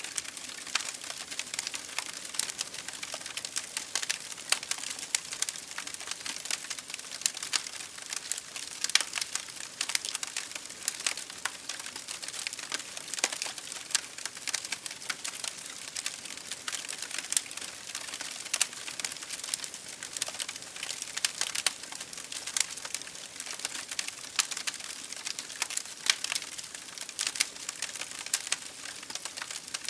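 Wood fire burning in an open fireplace, with steady hissing and many irregular sharp crackles and pops.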